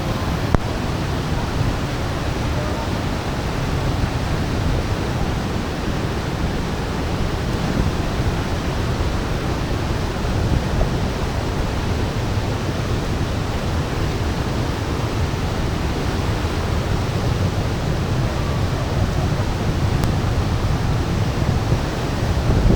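A large waterfall pouring close by: a steady, unbroken rush of falling water, heaviest in the low end.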